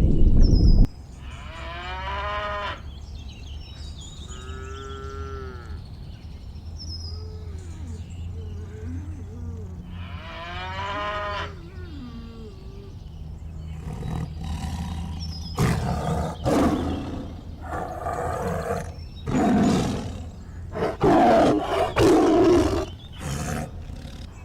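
A series of animal calls: short, pitched, wavering cries during the first half, then louder, harsher calls from about fourteen seconds in.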